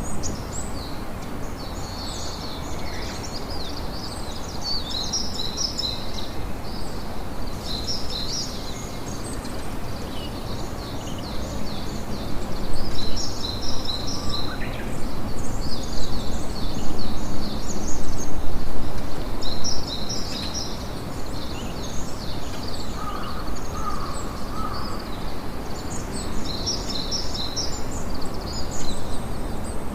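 Small birds chirping in quick clusters of high notes again and again, over a steady rushing noise that grows louder for several seconds in the middle.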